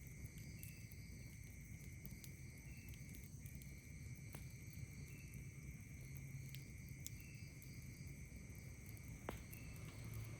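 Night insects trilling steadily, with a second insect giving short chirps about once a second. A few sharp pops from a crackling campfire come through, the loudest near the end.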